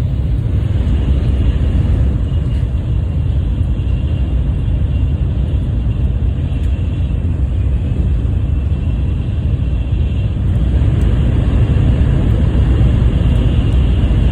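Tokaido Shinkansen bullet train running at speed: a steady rumble with a faint high whine, growing a little louder in the last few seconds.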